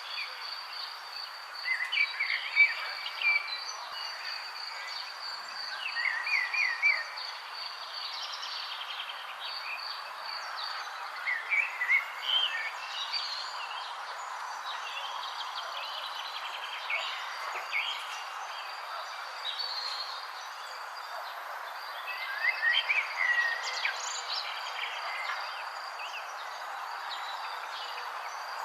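Songbirds singing short chirping phrases every few seconds over a steady background hiss. A high, fast-pulsing trill runs underneath for the first third and returns faintly later.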